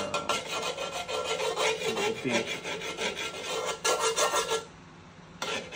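Rapid scraping and rubbing strokes of a utensil stirring in a cooking pan; they stop near the end.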